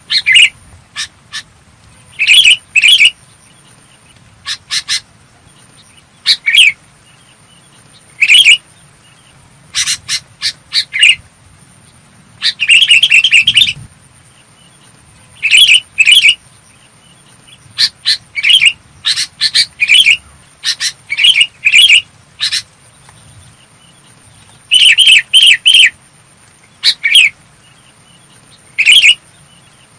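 Sooty-headed bulbul calling: short, clear bursts of notes repeated every second or two, with brief pauses between them.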